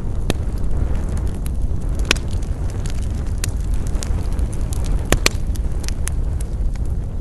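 Wood campfire crackling, with scattered sharp pops, the loudest about two seconds in and a close pair just after five seconds, over a steady low rumble.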